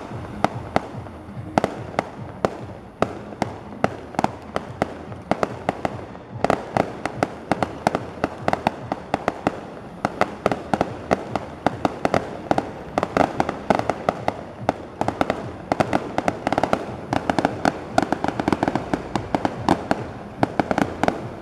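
Fireworks display going off in a continuous barrage of sharp bangs, several a second, growing denser and louder about six seconds in.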